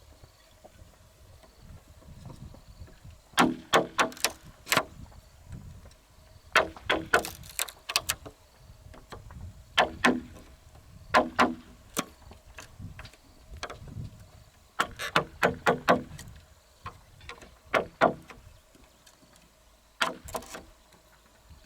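Repeated sharp knocks in quick bursts of three to six strikes, each burst followed by a pause of one to three seconds.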